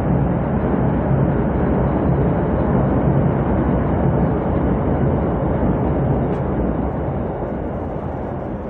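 Freight train rolling past: a loud, steady rumble of wheels on rail with a low hum underneath, beginning to fade near the end as the train draws away.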